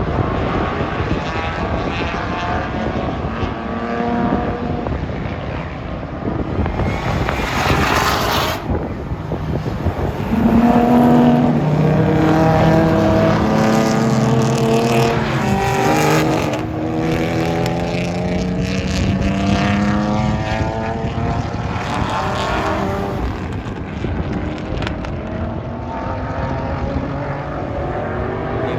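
Race car engines running hard on a track, rising and falling in pitch as they accelerate, shift and pass. Loudest from about ten seconds in.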